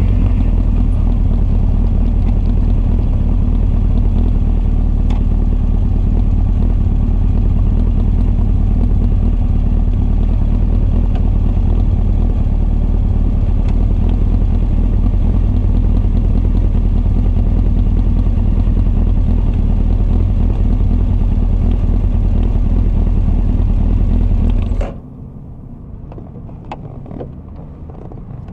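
Honda CB1300's carbureted inline-four, on Keihin FCR41 carburettors with a Wyvern full exhaust, runs at a steady, even idle. It shuts off suddenly near the end, leaving a much quieter background with a few faint clicks.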